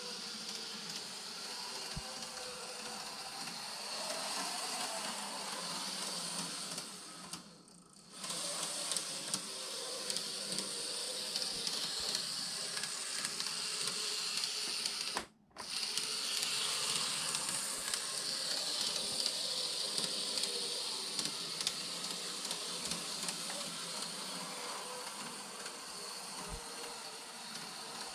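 Microace N-gauge 215 series model train running on track: a steady, high-pitched small-motor buzz with wheel noise, dipping briefly about a quarter of the way in and cutting out for a moment about halfway.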